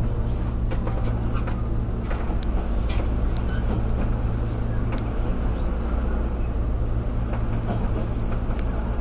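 Diesel railcar running along the track: a steady low engine drone with the rumble of wheels on rail, and scattered light clicks.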